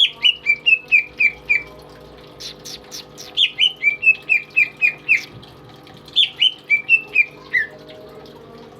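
Cucak ijo (green leafbird) singing: three phrases of quick, repeated down-slurred whistled notes, each one to three seconds long, with short gaps between them.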